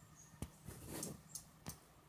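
Pileated woodpecker pecking at wood: faint, irregular sharp knocks, one about half a second in and two close together near the end, with a soft rustle between them.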